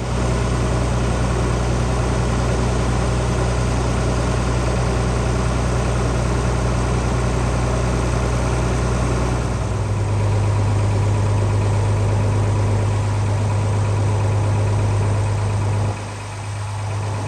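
Farm tractor engine running steadily. Its note shifts about halfway through, and it drops in level near the end.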